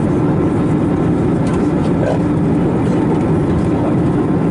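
Steady cabin noise of an Airbus A321neo in flight: a loud, even rush of airflow and the drone of its CFM LEAP-1A turbofans, with a steady low hum.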